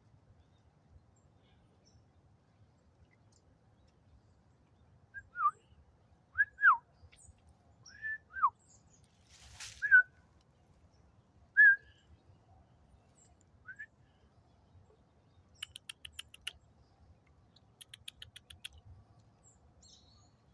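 Wild birds calling: about half a dozen short whistled notes that slide downward, then two fast rattles of about ten strokes a second in the last few seconds.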